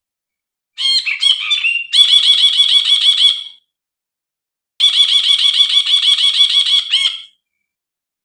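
Brinji (bulbul) calling in two bursts of rapid, evenly repeated harsh notes, the first opened by a few varied notes, with a pause of about a second between them. It is a recording of the call used as a lure to set off brinji.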